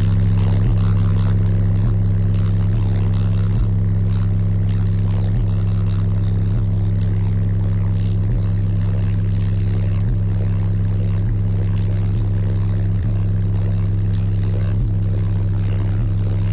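Car audio subwoofers playing a sustained bass note at full volume for an SPL meter reading, one steady deep drone with faint ticks about once a second. It measures about 144–145 dB.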